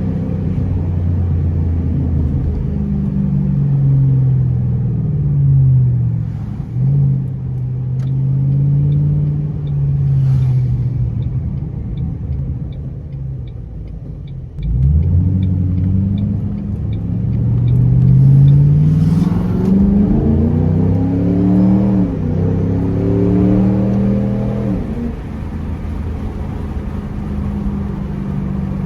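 Ford Mustang exhaust through a Roush Extreme axle-back, heard with the windows down as the car is driven up through the gears. The exhaust note climbs in pitch, drops at each shift and eases off for a while in the middle, then pulls hard up through several gears before settling to a steady cruise. A light ticking, about twice a second, sits under it for a few seconds in the middle.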